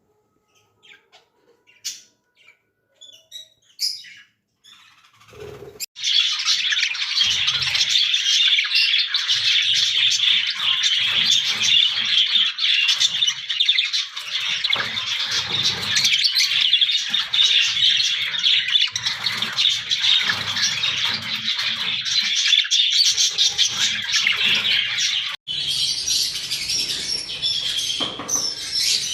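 Many caged small birds chirping and chattering at once. A few scattered chirps come first, then from about six seconds in there is a dense, continuous chorus of chatter.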